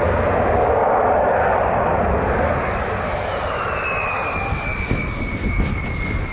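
Jet airliner's engines running with a steady rumble; about three seconds in a high turbine whine comes in and slowly falls in pitch.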